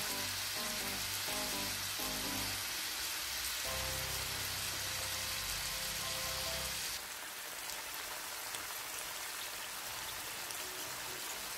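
Garlic scapes and sliced garlic sizzling in hot oil in a frying pan, a steady hiss that drops to a softer level about seven seconds in.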